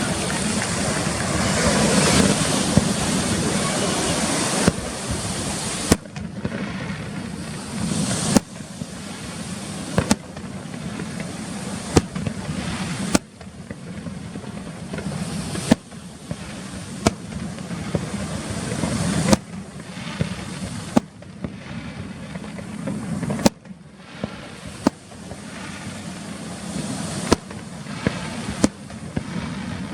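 Aerial fireworks display: a few seconds of dense, continuous noise, then shells bursting with sharp bangs every second or two, each followed by a fading rumble.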